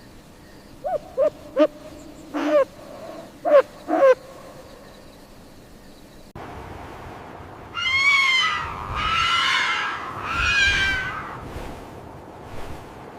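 An owl hooting, six short calls that each drop in pitch, followed a few seconds later by a horse neighing in one long, quavering whinny.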